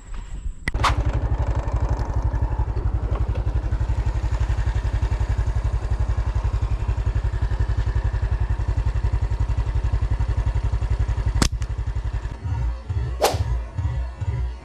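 Small motorcycle engine running at a steady speed, a fast even pulse, with sharp clicks near the start and near the end. About 12 seconds in it gives way to music with a regular beat.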